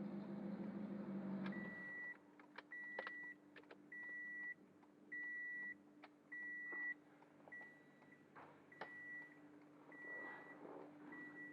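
Turbocharged Toyota Corolla Altis engine idling, then switched off about a second and a half in. The car's warning chime then beeps steadily, one beep a little over a second apart, the later beeps softer, with a few clicks and a faint hum under it.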